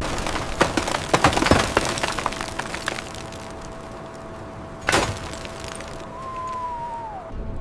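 A quick run of sharp cracks and snaps, then one loud single crack about five seconds in, over a faint steady tone. A short falling whistle-like tone comes near the end.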